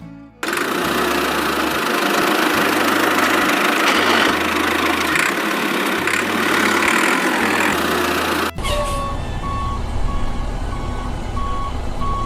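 A loud, steady, hissing machine noise starts about half a second in and cuts off abruptly near the end, giving way to a low engine rumble with a regular on-off beeping.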